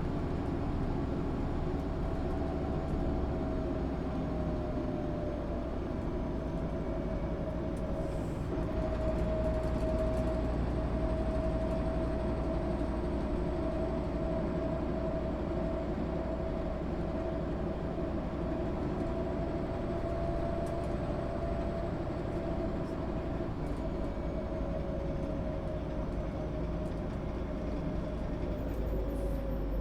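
1996 MAN SÜ 272 NCT bus under way, with a low engine and road rumble and a steady drivetrain whine. The whine rises slightly in pitch and then drops near the end as the bus slows.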